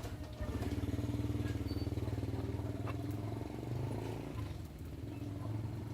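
Small engine running steadily with an even, rapid pulse, like a motorcycle engine at idle to low throttle.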